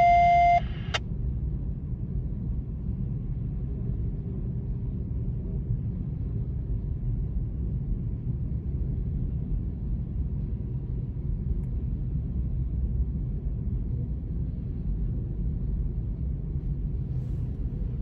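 Freight cars of a Union Pacific manifest train rolling past, a steady low rumble of wheels on rail. A loud electronic beep with a clear tone cuts off about half a second in.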